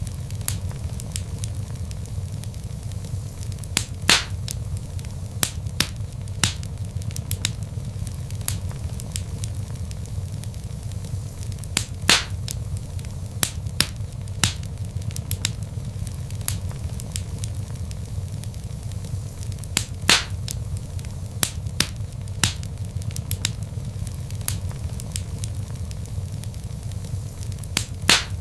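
Wood fire burning in a fireplace: logs crackling with irregular sharp pops, a few louder snaps standing out over a steady low rumble of the flames.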